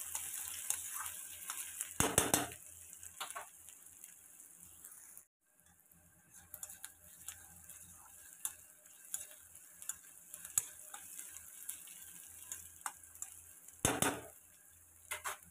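Sliced onions with ginger, garlic and green chilli sizzling in hot oil in a metal kadhai, stirred with a spatula that clicks and scrapes against the pan. Two louder scrapes come about two seconds in and near the end, and the sizzle turns quieter about five seconds in.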